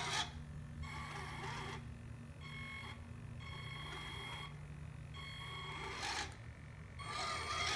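Kyosho Blizzard RC snow tank's electric drive motors and gearboxes whining in about five short bursts, stopping and starting as the tracks are driven in different directions, with a steady low hum underneath.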